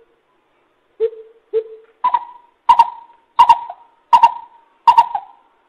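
Coucal (bubut) calling: a series of deep hoots, two lower notes first, then louder, higher hoots repeated about every 0.7 s.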